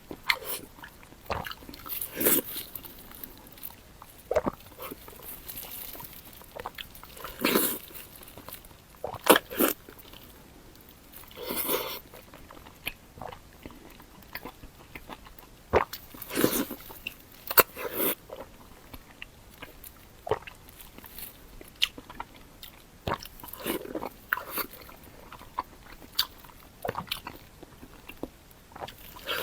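Close-miked eating: a person biting and chewing food, with irregular crunches and sharp mouth clicks.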